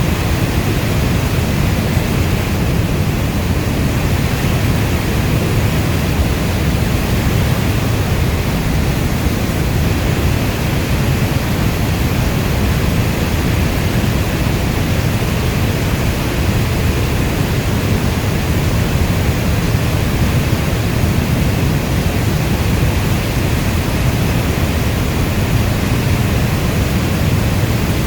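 Heavy rainstorm as a dense, steady noise weighted to the low end, with no single drops or other events standing out.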